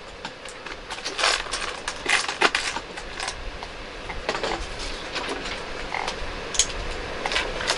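Plastic LEGO bricks clicking and rattling as pieces are picked from a pile and pressed together, in irregular sharp clicks.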